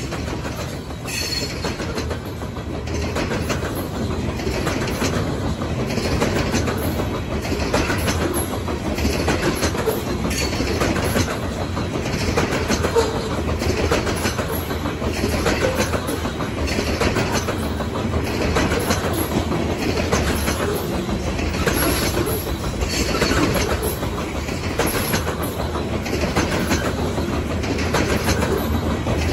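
Freight train of covered hopper cars rolling past, its wheels clacking over the rail joints in a steady rhythm over a continuous rumble.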